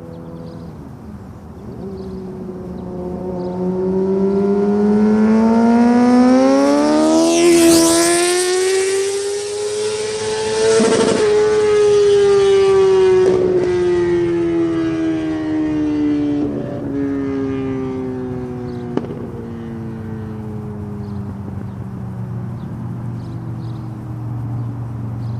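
Yamaha R6 inline-four motorcycle with an open Racefit Growler exhaust (no dB killer) accelerating hard past the microphone. The engine note climbs to a peak as the bike goes by, then the pitch falls steadily as it pulls away, with a few short cracks from the exhaust.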